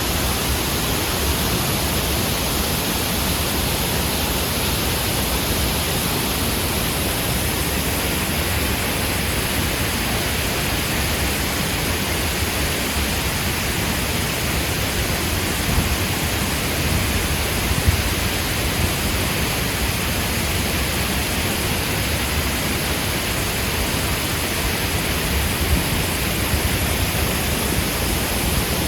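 Steady rushing of water pouring down a tall artificial waterfall.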